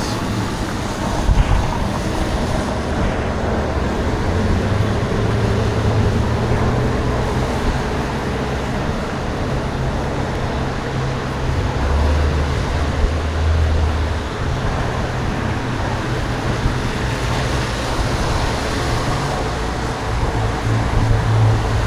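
Steady wind rush on the microphone of a rider on a moving bicycle, mixed with road traffic noise and a low rumble that swells and fades as vehicles pass.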